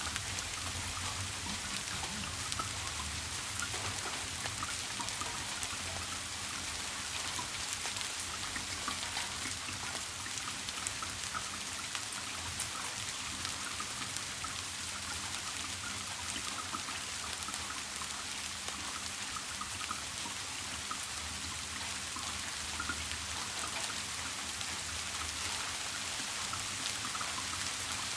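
Steady rain falling, with countless small drops striking a surface, over a low steady hum.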